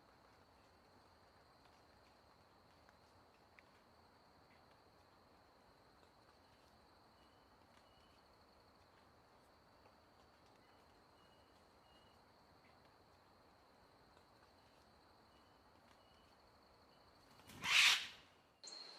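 Faint outdoor ambience: a steady high-pitched insect drone over a soft hiss, with a few short high chirps. Near the end a loud, brief whoosh, then the drone comes back louder.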